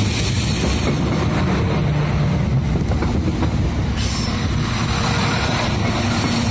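NCTD Sprinter diesel multiple unit (Siemens Desiro railcars) passing close by, a steady, loud noise of engine and steel wheels on the rails, its trailing end going past near the end.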